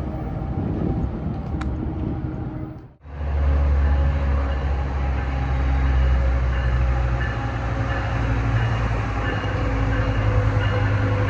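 Diesel locomotive engine running with a heavy, steady low drone. About three seconds in, the sound dips briefly to near silence and comes back at a new clip.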